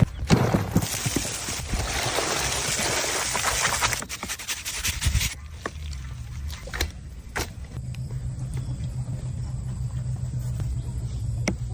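Kitchen food-preparation sounds: a rushing hiss for about three seconds, then scattered clicks and knocks over a steady low hum.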